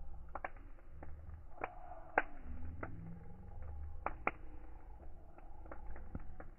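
A wood fire crackling: irregular sharp pops and snaps, the loudest about two seconds in and again just past four seconds, over a low steady rumble of the flames.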